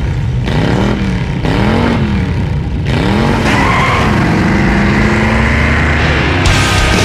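Engine revved up and down about four times, its pitch rising and falling roughly once a second, then held at a steadier speed.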